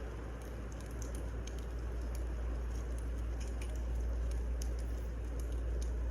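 Burning firewood: a steady low rumble and hiss with scattered small crackles and pops.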